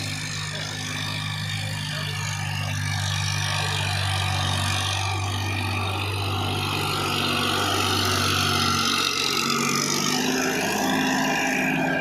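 Diesel tractor engine running steadily at working revs in low gear while pulling a harrow. About nine seconds in, the engine note shifts.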